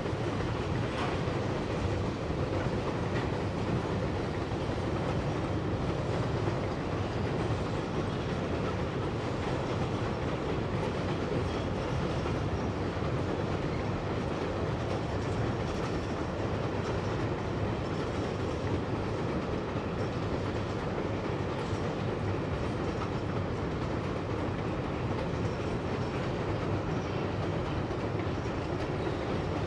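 Freight train rolling steadily across a railway viaduct: a continuous, even noise of wheels running on the rails.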